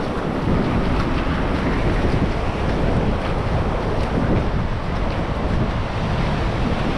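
Wind buffeting the microphone, with ocean surf washing steadily underneath.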